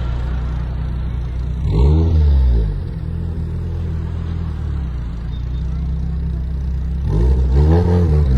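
Car engine idling with a deep, steady note, revved twice: once about two seconds in and again near the end, the pitch rising then falling each time.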